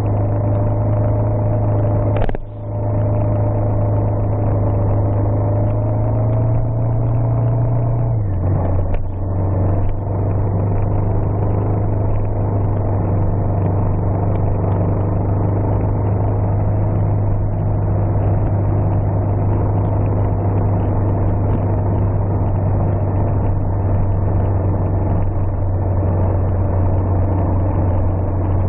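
Vehicle engine running steadily under way on a gravel road, a continuous low hum. The level dips briefly about two seconds in, and the engine note steps down slightly about eight seconds in.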